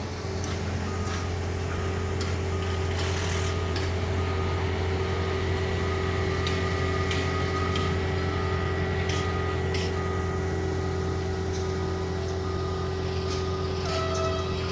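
Construction-site machinery: a heavy engine running steadily, with scattered metal knocks and clanks.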